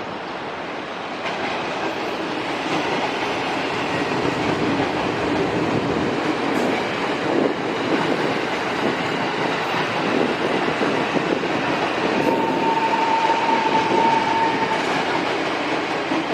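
A train passing close by, its wheels running on the rails, growing louder over the first few seconds. A steady high tone sounds for about two seconds near the end.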